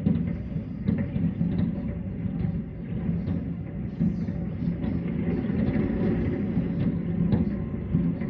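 Aerial fireworks booming in a continuous low rumble, with sharper bangs standing out now and then, at the start, about a second in, and around four and seven seconds in.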